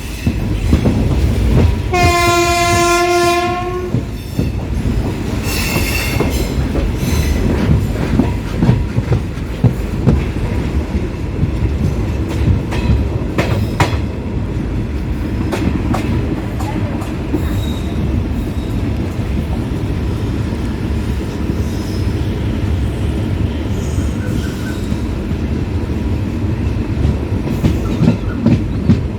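Passenger train running, heard from on board: a steady rumble of the coaches with rail-joint clicks and some wheel squeal. The diesel locomotive's horn sounds once for nearly two seconds about two seconds in, and a short fainter hoot follows a few seconds later.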